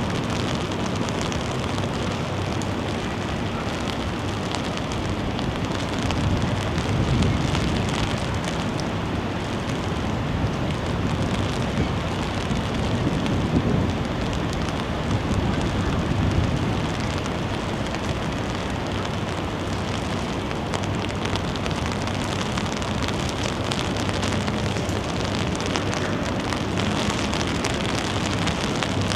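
Steady rain falling, with the scattered patter of drops. Two gusts of wind swell the sound, one a few seconds in and another about halfway through.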